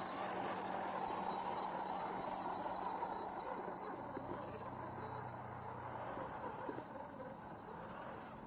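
Small electric motor and gearbox of a 1:12 scale RC 4x4 truck running, with a thin steady high whine over a rough mechanical noise that slowly fades toward the end.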